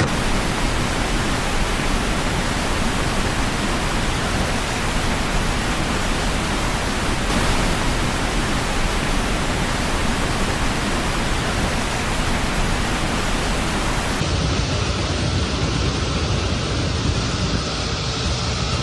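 Loud, steady rushing noise of water. About fourteen seconds in it cuts to a second stretch of the same kind of noise, slightly duller.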